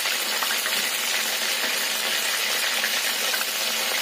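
Spice-coated prawns deep-frying in hot oil, a steady, even sizzle.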